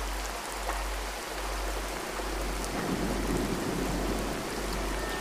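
Steady rain falling, an even hiss, with a soft low rumble swelling about three seconds in. Underneath runs a low droning tone that dips and swells a little more than once a second, a binaural-beat layer.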